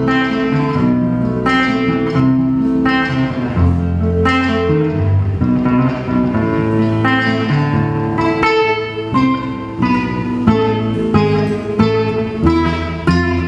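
Guitar music: acoustic guitar chords strummed and plucked in a steady rhythm.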